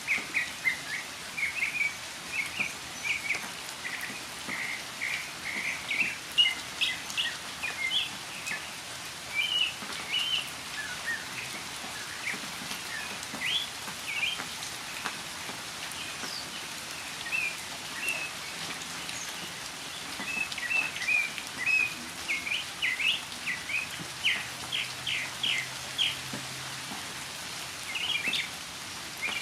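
Northern mockingbird singing in the rain: phrases of short, high chirping notes, some repeated several times in a row, with brief pauses, over the steady hiss of falling rain.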